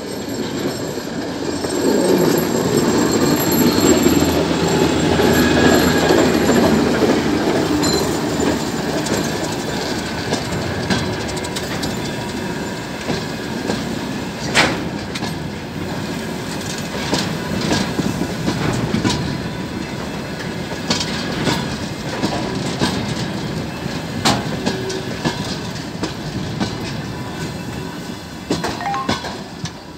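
TEM2 shunting diesel locomotive passing close by with its engine running, loudest in the first several seconds, followed by a freight train of gondola and hopper wagons rolling past, the wheels clanking over the rail joints every second or two.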